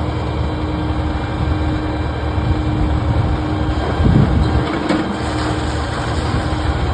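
Steady low rumble like a heavy engine running, with a faint steady hum that stops about four seconds in.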